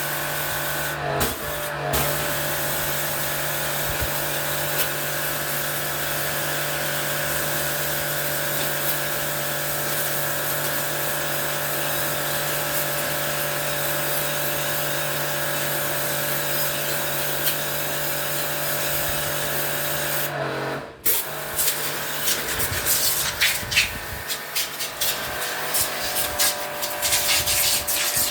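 Electric water-jet pump spraying water in a steady hiss with a low hum, typical of washing an air conditioner's coils. It cuts out about 21 seconds in, and irregular splashing and knocking follow.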